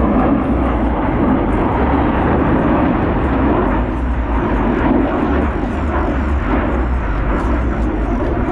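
Jet noise from the Blue Angels' F/A-18 Super Hornets flying overhead: a loud, steady rush that eases a little about four seconds in.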